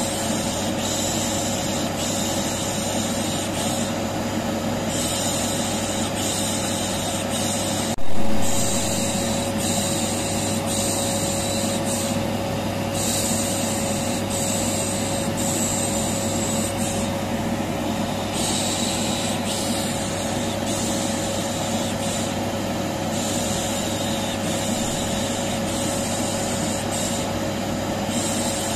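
A vacuum cleaner running at a steady pitch with a constant hum, overlaid with a 'psh psh' shushing hiss that pauses briefly every four to five seconds, as white noise to calm a colicky baby. A sudden loud bump comes about eight seconds in.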